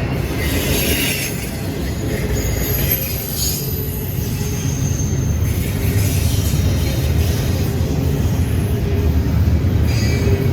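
Freight train's cars rolling past with a steady low rumble. Thin, high wheel squeals come and go on top of it.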